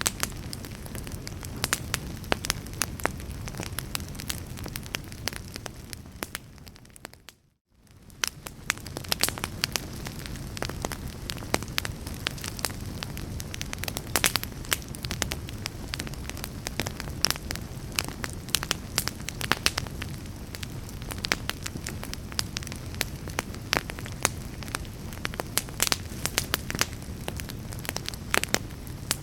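Wood fire in a fireplace crackling and popping, with sharp snaps over a low rumble of the burning. About seven seconds in the sound fades out almost to silence for a moment, then fades back in.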